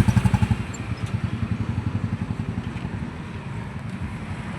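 An engine running with a rapid, low, even chugging that fades away over the first few seconds.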